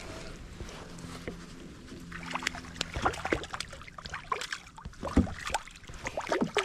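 Water splashing and dripping beside a kayak as a hooked bass is brought in. The second half has a busy run of sharp knocks and splashes.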